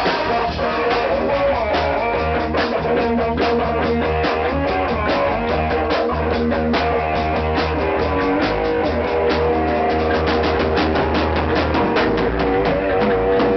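Rock band playing an instrumental passage: guitar over a driving drum kit beat and bass guitar, at a steady fast rhythm.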